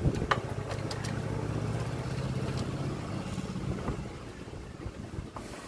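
A motor running with a steady low hum that fades out about three seconds in, with a few light clicks over it.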